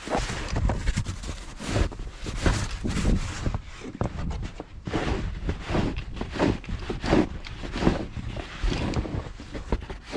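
Snow being shoveled by hand: repeated crunches and scrapes in deep snow, about one or two a second, from the shovel and boots.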